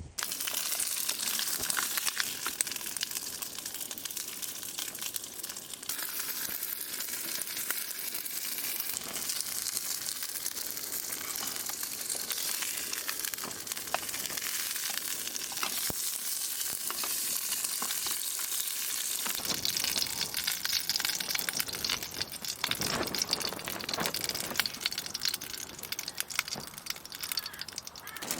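Food sizzling and crackling steadily in a hot frying pan.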